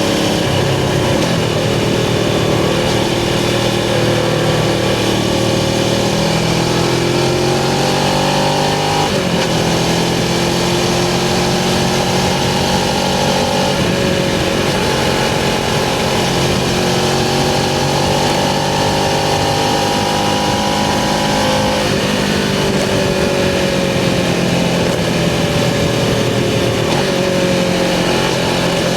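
Suzuki GS500's air-cooled parallel-twin engine pulling under load while riding: the revs climb steadily, drop sharply with an upshift about nine seconds in, climb again and drop with another shift near the end.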